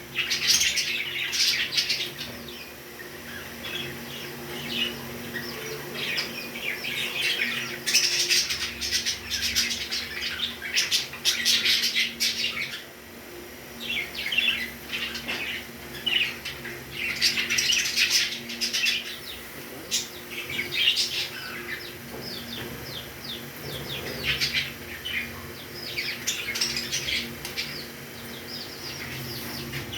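Pet parrots chirping in quick bursts of short, high calls, coming in clusters every few seconds with brief lulls between.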